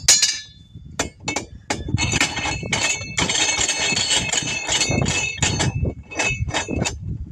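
Metal tools and wheel hardware clinking and clattering in quick, irregular strikes with a ringing metallic tone, densest from about two seconds in.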